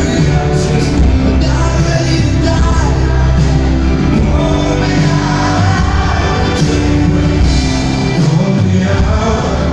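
Live rock-pop band music with singing over it, loud and steady throughout.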